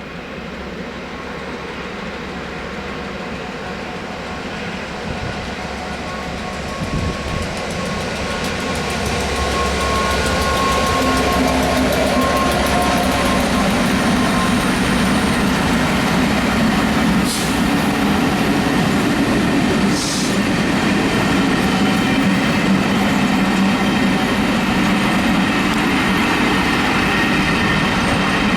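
A train approaching and running past, growing louder over the first ten seconds, then a steady rumble of wheels rolling on the rails. Two sharp clicks come through, about seventeen and twenty seconds in.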